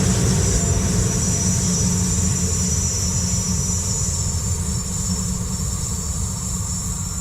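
A train running past close by: a heavy low rumble from the wheels and cars, with a steady high squeal of wheels against the rails. It eases off slowly towards the end.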